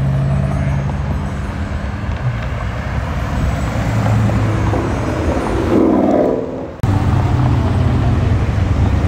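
Classic cars' engines running as they cruise slowly past, a steady deep exhaust drone. About six seconds in a short higher-pitched sound rises over it and then cuts off abruptly.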